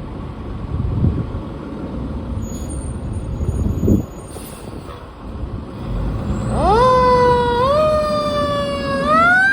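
Fire engine's siren winding up about two-thirds of the way in, rising in pitch in steps and sagging between them, over the rumble of the truck and traffic.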